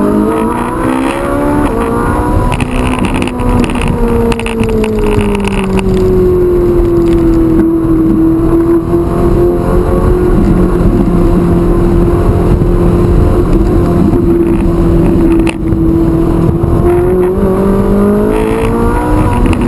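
Ferrari 458 Italia's V8 engine under power. Its pitch rises over the first few seconds, eases back and holds steady through the middle, then climbs again near the end.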